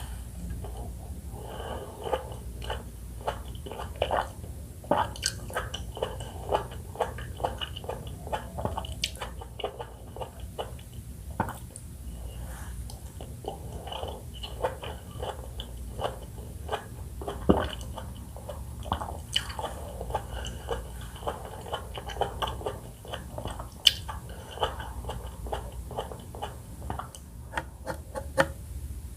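Close-miked chewing of juicy pomelo segments: a steady run of wet smacks and small crisp pops as the pulp vesicles burst, with a few sharper clicks.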